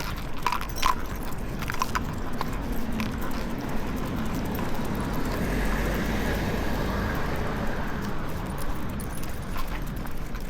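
A car passes, its noise swelling to a peak about halfway through and then fading. A few light metal jingles and clicks come in the first couple of seconds.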